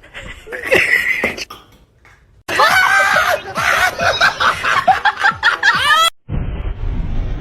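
People laughing, mixed with some talk, in quick choppy bursts. Near the end it cuts off abruptly and a steady low rumbling noise takes over.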